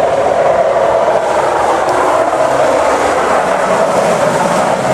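Snowplow truck passing on the road, a loud steady rushing noise that holds at an even level.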